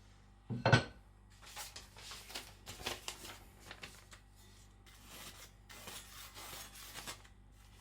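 A steel cleaver knocks once against an aluminium oxide sharpening stone. Then come a run of short rasping scrapes as its edge is dragged into the stone to dull it.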